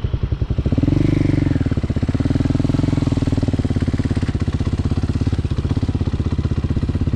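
Single-cylinder engine of a Hawk 250 motorcycle running with a fast, even pulse. It picks up in pitch and level about a second in, then holds steady.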